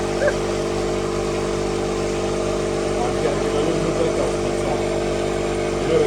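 Car engine idling steadily, an even hum with no revving.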